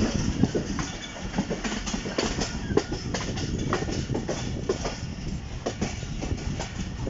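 Passenger train rolling along the track, its wheels clicking and clattering irregularly over rail joints above a steady low rumble, heard from aboard the coach.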